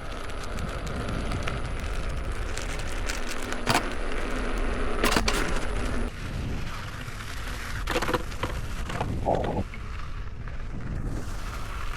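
Leaperkim Oryx electric unicycle making its intermittent knocking noise: several sharp knocks and fainter ticks over a steady low rumble, a knock the owner has heard since the wheel was new.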